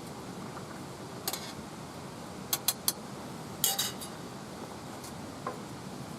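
A few light clinks and knocks of small metal or glass ware being handled, three in quick succession midway and a louder rattle soon after, over a steady low hiss.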